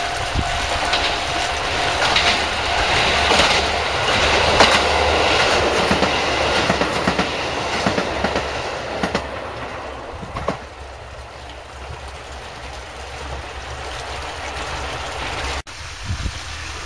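A diesel railcar passing close by: the engine and wheels run loudly, the wheels click over the rail joints, and the sound fades away after about ten seconds. It cuts off sharply near the end.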